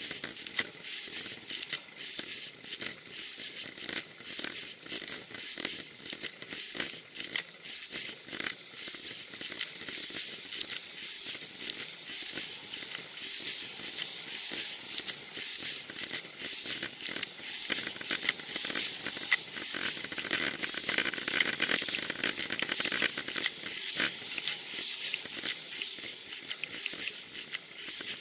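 Rain and wet-road noise picked up by a Cycliq Fly6 bike camera's built-in microphone while riding: a steady hiss with many small crackles and patters, growing louder for a few seconds about twenty seconds in.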